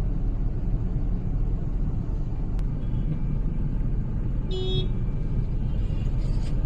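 Steady low rumble of a moving road vehicle's engine and tyres. A short horn toot sounds about four and a half seconds in, and a fainter one comes near the end.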